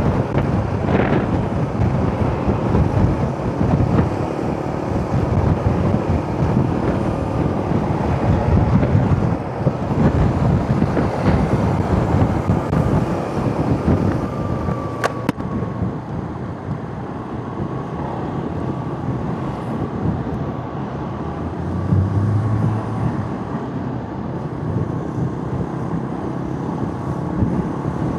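Wind rushing over the microphone of a moving motorcycle, with engine and tyre noise underneath at steady riding speed.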